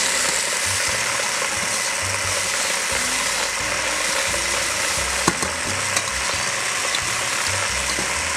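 Food sizzling as it fries in a stainless steel saucepan while being stirred, a steady hiss with a couple of sharp clicks of the utensil against the pan about five and six seconds in.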